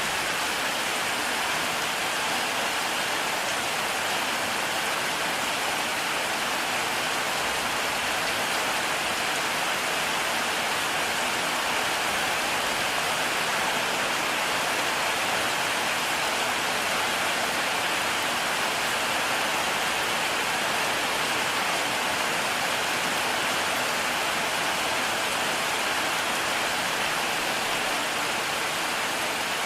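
Heavy rain falling steadily, a continuous even hiss of rain without thunder.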